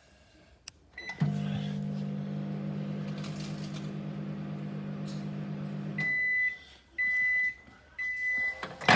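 Microwave oven: a short keypad beep, then the oven runs with a steady low hum for about five seconds and stops, followed by three high end-of-cycle beeps about a second apart and a sharp click near the end.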